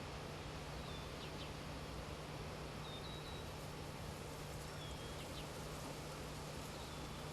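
A small bird calling four times, about every two seconds: each call a short high note followed by a couple of quick ticks. Under it runs a steady rushing background noise with a low hum.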